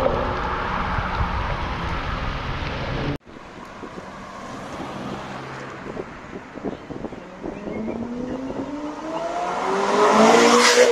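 A loud car engine running, cut off abruptly about three seconds in. After that comes quieter street noise, then a car accelerating, its engine note rising and loudest near the end.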